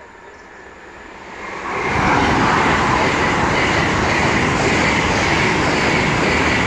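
An LNER Azuma high-speed train passing at speed. The noise swells about a second and a half in, then holds as a loud, steady rush.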